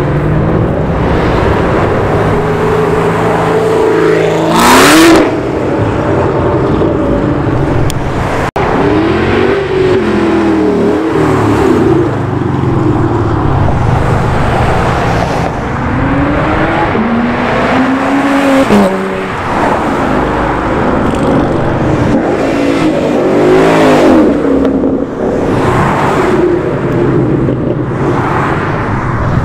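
Car engines revving and accelerating as a line of cars drives past, one after another, each pass rising and then falling in pitch. The loudest is a hard rev about five seconds in.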